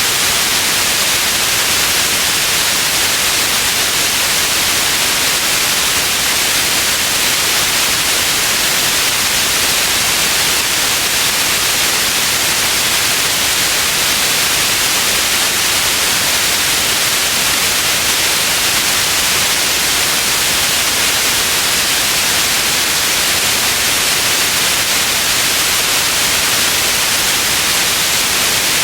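Steady white noise: an even hiss, strongest in the upper range, with no change or events.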